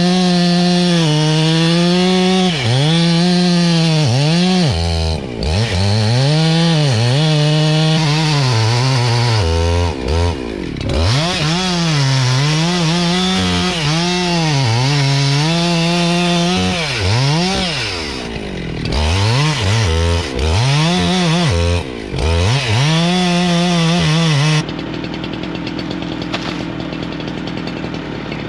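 Gas chainsaw cutting wood, its engine pitch repeatedly sagging as the chain bites and rising again as it clears. About 25 seconds in it eases off to a steadier, quieter run, then revs up again at the very end.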